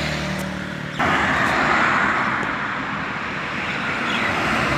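A motor vehicle's engine hums low and steadily, then about a second in it cuts off sharply into a loud, even rushing noise. A few faint bird chirps sound over it.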